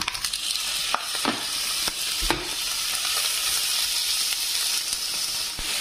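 Peeled king prawns dropping into hot oil in a nonstick frying pan and sizzling steadily, the sizzle swelling as they go in, with a few light knocks as they land.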